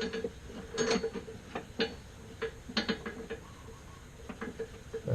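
Scattered light metallic clicks and taps of tools and hardware as a bolt is worked into place during an engine and transmission install, over a faint hum.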